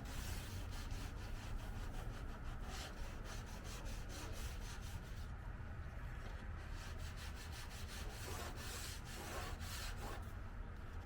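Sandpaper being rubbed by hand over a car body panel in quick back-and-forth strokes, a few a second, with short pauses about midway and near the end. A steady low hum runs underneath.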